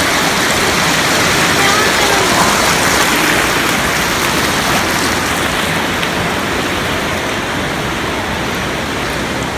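River current rushing, a loud steady wash of flowing water.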